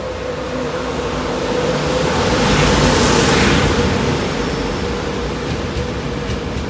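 InterCity 225 train, driving van trailer leading, running along the platform close by: a rush of wheel and air noise that swells to its loudest about three seconds in as the front passes, then eases as the coaches roll by, over a steady hum.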